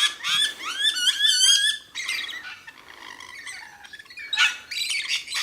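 A group of birds squawking and screeching as they squabble over food. A fast string of harsh calls fills the first two seconds, then comes quieter chatter, and another loud burst of squawks follows near the end.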